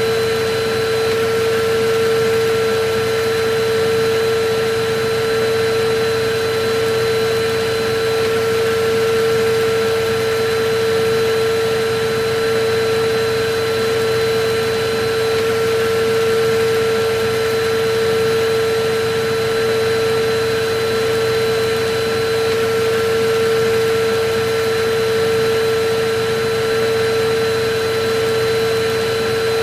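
Electric vacuum cleaner running steadily: a constant motor whine over a rushing hiss of air.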